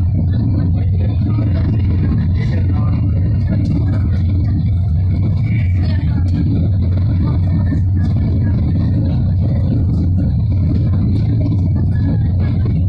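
Passenger train running at steady speed, heard from inside the carriage: a loud, even rumble of wheels and carriage with scattered faint clicks.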